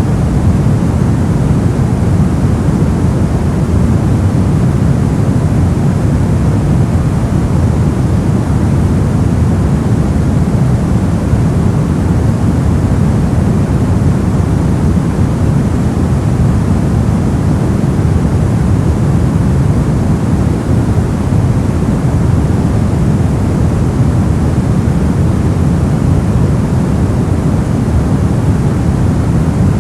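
Steady white-noise track: a constant, unbroken hiss, heaviest in the low end, with no changes or events.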